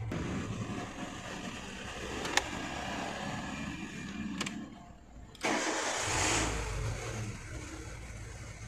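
Renault Duster petrol engine being started: two sharp clicks, then about five and a half seconds in a sudden start that catches at once and settles to running. It is a start test of the no-start-when-warm fault, with the failed intake air temperature sensor bypassed by a fixed resistor.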